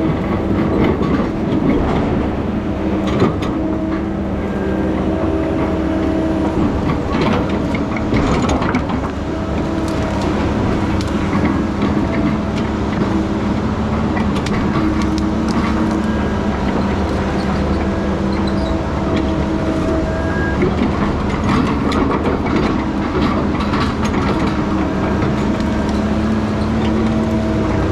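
Heavy diesel logging machine running steadily under load, with frequent metallic clanks and knocks over the engine.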